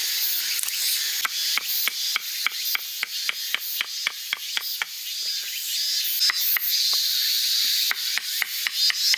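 Firewood being worked by hand for kindling: quick, short scraping strokes on wood, about three a second, with a steady high hiss behind them.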